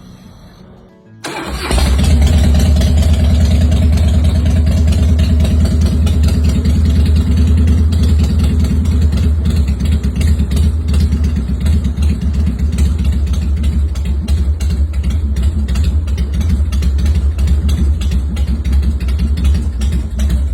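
2004 Harley-Davidson Fat Boy's Twin Cam 88B V-twin engine starting about a second in, then running at a steady idle.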